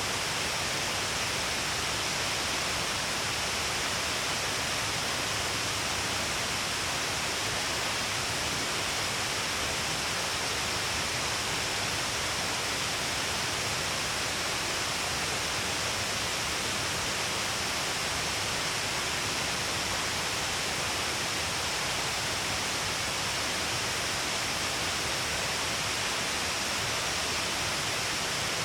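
Shiraito Falls: many strands of water pouring down a cliff face, making a steady, unbroken rush of falling water and spray.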